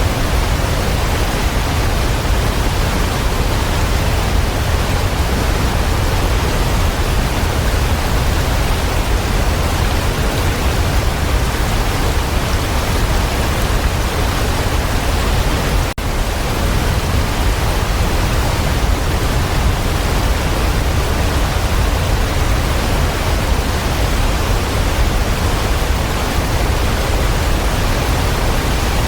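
Waterfall rushing steadily, a dense, even roar of falling water, broken only by a split-second dropout a little past halfway.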